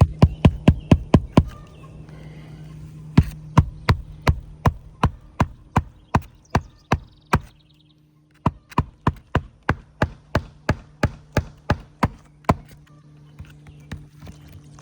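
Hammer driving roofing nails through asphalt shingles: three runs of sharp blows, two to three a second, with short pauses between, over a steady low hum.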